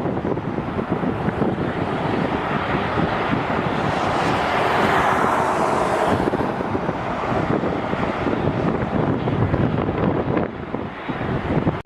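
Strong wind buffeting the microphone. A jet airliner's engine noise swells to a peak about five seconds in, then fades.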